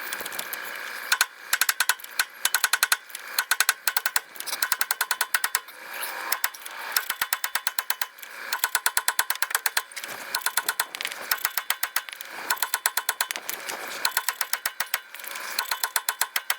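Ratchet wrench clicking in quick runs of about a second each, over and over, as a bolt or press screw is worked on a Ford F-150's front suspension.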